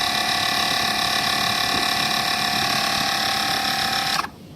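Portable electric tyre-inflator air compressor running steadily with a constant whine while pumping up a car tyre, then switched off and cutting out suddenly near the end.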